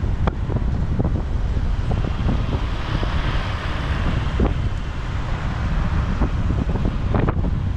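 Wind buffeting the microphone over the low rumble of a motorbike riding through city traffic, with a swell of road noise in the middle, as of a vehicle passing close by.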